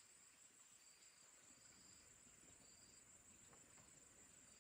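Near silence with faint insects chirping in short high trills, about one a second.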